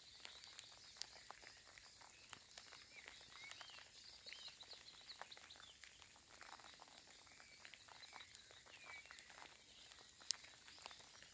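Faint outdoor ambience of light rain falling in scattered drips and taps, with small birds chirping now and then. One sharper tap stands out near the end.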